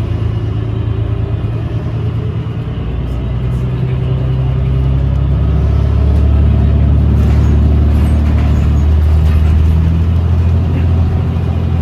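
New Flyer XDE40 diesel-electric hybrid bus drivetrain heard from on board: a steady low drone that grows louder from about three seconds in as the bus picks up speed, then holds.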